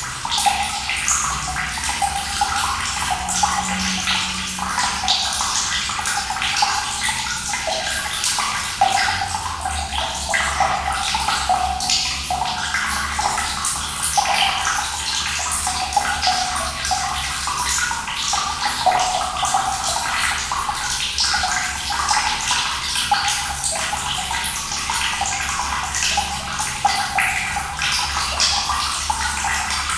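Running water splashing and gurgling steadily, a constant pour with many small splashes.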